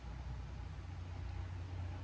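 Vehicle engine idling: a steady low hum with faint background hiss.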